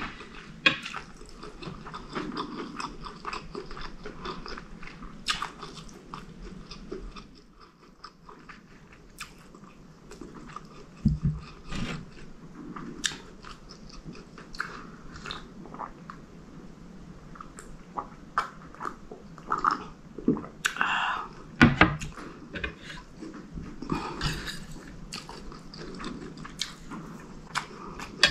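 Close-miked chewing and biting of mouthfuls of curry chicken and basmati rice, with frequent small mouth clicks and smacks. There are a couple of louder low thumps along the way, and a sip from a drinking glass partway through.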